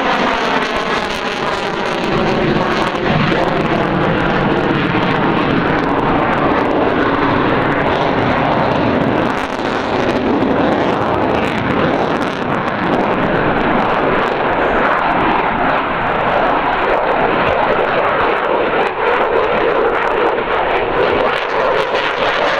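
Eurofighter Typhoon's twin Eurojet EJ200 turbofans, loud and steady, as the jet flies past in its display. The tone has a slow, sweeping whoosh that shifts as the aircraft moves.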